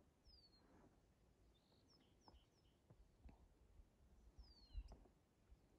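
Near silence outdoors, with a few faint bird chirps: short notes sliding down in pitch, a clear one about a quarter-second in and another near the end, plus a few soft ticks.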